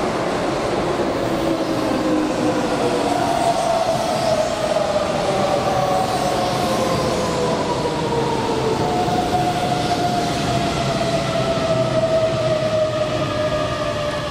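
Keihan electric commuter train braking as it pulls into the platform: its traction motors whine in several tones that fall slowly and steadily in pitch, over the rumble of wheels on rail.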